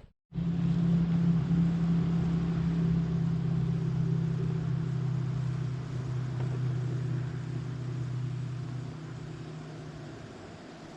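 A motor engine drones at a steady pitch, slowly growing fainter and dying away near the end.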